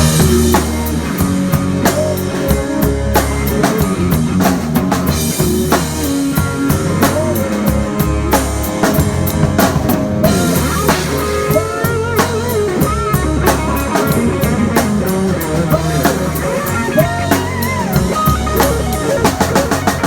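Live country-rock band playing an instrumental stretch: a full drum kit with kick drum and snare or rimshot hits keeping a steady beat under electric guitar and bass, the guitar playing bending lead lines.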